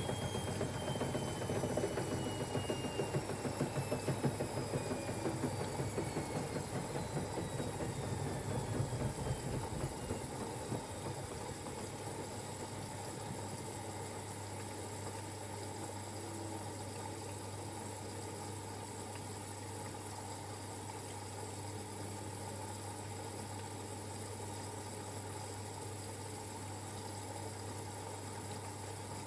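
Siemens Extraklasse XLs 140 A washing machine coming down from a spin: the drum rumbles and the motor's whine falls slowly in pitch for about ten seconds, then the machine settles to a quieter steady low hum.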